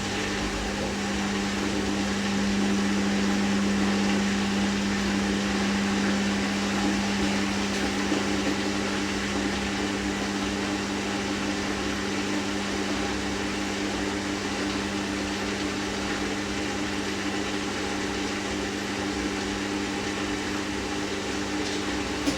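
Hoover DynamicNEXT washing machine's drain pump running, a steady hum, as the rinse water is pumped out of the drum.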